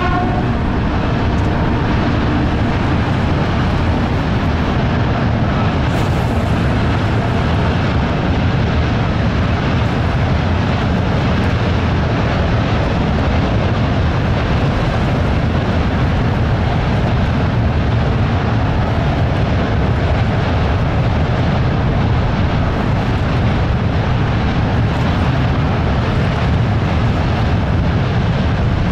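Strong gusty wind blowing across the microphone, a loud, steady rushing rumble with no distinct events.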